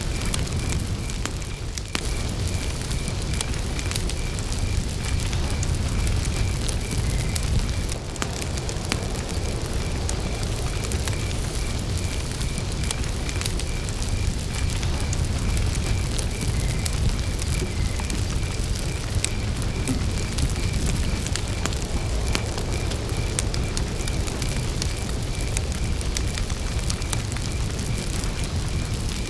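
Wood campfire burning with a steady low rush and scattered crackles and pops. A cricket chirps throughout in an even, high-pitched pulse.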